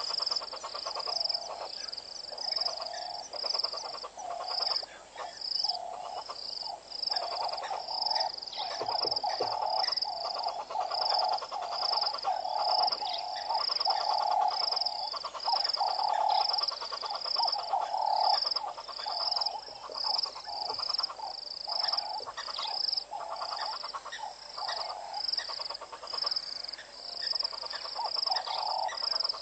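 A chorus of frogs calling continuously: repeated pulsed, croaking calls in the mid range, overlaid by a regular high-pitched call repeating about twice a second.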